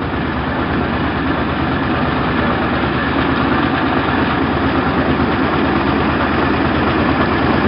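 A boat's diesel engine running steadily, with an even, unbroken rumble.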